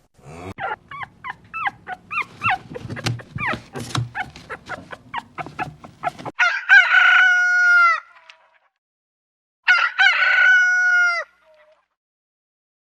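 Chickens clucking in a quick run of short calls, then a rooster crowing twice, each crow about a second and a half long, with a short pause between.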